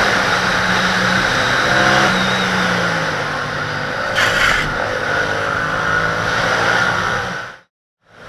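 Motorcycle engine running while riding, with wind rushing over the camera microphone. The engine pitch falls about two to three seconds in, and a short hiss-like burst comes about four seconds in, before the sound fades out near the end.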